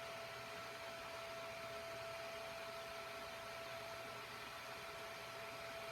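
Faint steady hiss with a thin, steady hum: room tone.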